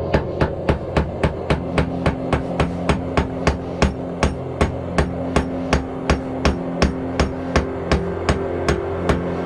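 Hammer striking steel on an anvil in quick, even blows, about three to four a second: hand-forging cutlery from steel.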